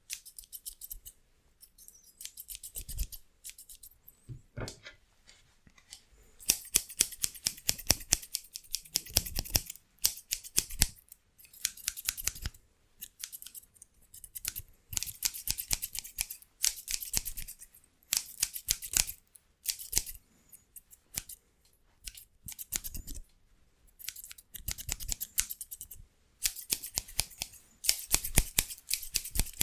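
Scissors snipping fast, in runs of many rapid cuts that last a second or two each, with short pauses between the runs.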